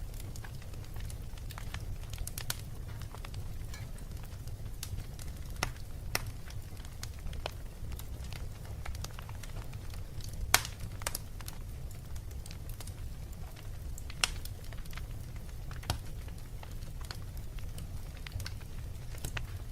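Wood fire burning in a fireplace, crackling with irregular sharp pops over a steady low rumble; two pops about ten and fourteen seconds in stand out as the loudest.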